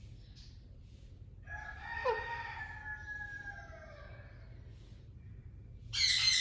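A rooster crowing once: one call of about two seconds that falls slowly in pitch. Near the end a louder, harsh bird squawk cuts in.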